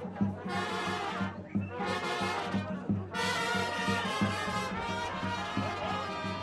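Brass band music with a steady low drum beat under held brass notes.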